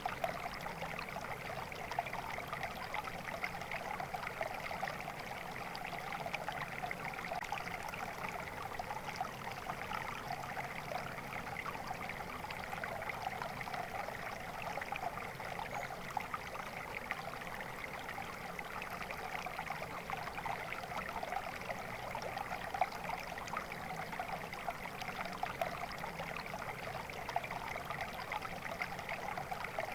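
Stream water flowing and trickling steadily, a continuous splashing babble with many small flickers and no change.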